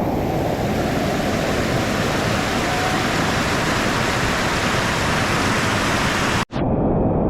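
Loud, steady rush of fast-flowing floodwater. About a second before the end the sound cuts out for an instant, then resumes duller.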